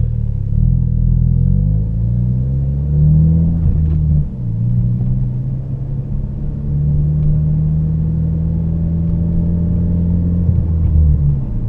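Ford Focus RS's 2.3-litre turbocharged four-cylinder through a muffler-delete exhaust, heard inside the cabin during a gentle take-off. The engine note climbs, dips sharply about four seconds in, climbs again and holds a steady low drone, then eases off near the end.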